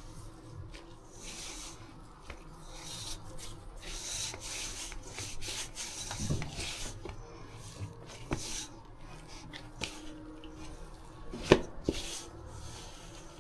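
Dough being kneaded by hand: soft rubbing and pressing strokes in an irregular rhythm, with a sharp knock near the end.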